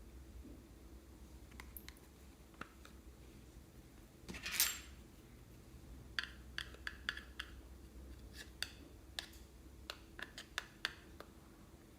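Slime being worked by hand: scattered sharp little clicks and pops, a brief scrape about four and a half seconds in, then a quick run of clicks.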